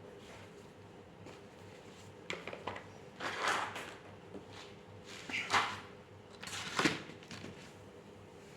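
A drawing tool scratching across paper in three short strokes, with a few light taps between them.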